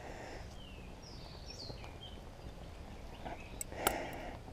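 Birds calling in the woods: several short chirps that slide down in pitch, over a steady outdoor background. About four seconds in there is one sharp click.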